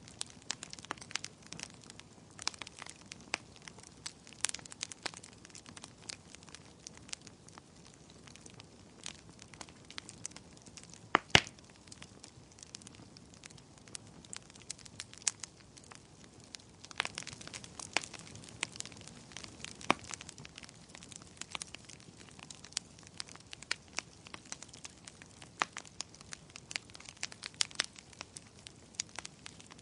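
Wood fire crackling in a fireplace: irregular sharp pops and snaps over a low hiss, with one louder pop about a third of the way in.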